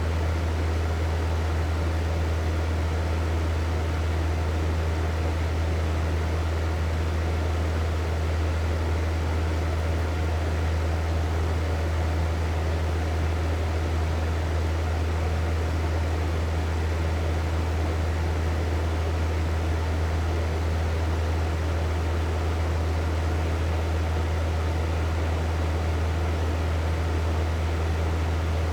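Hair dryer running steadily: a constant rush of air over a strong low motor hum, with no change in speed or pitch.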